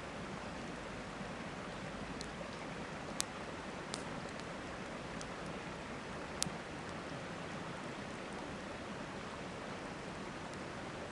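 Campfire crackling, with a few sharp pops about three and six and a half seconds in, over the steady rush of a river.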